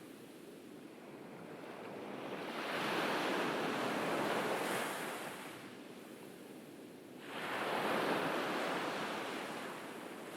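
Ocean waves breaking on a beach: two waves in turn, each a rush of surf that swells and then fades away, the second coming in sharply about seven seconds in.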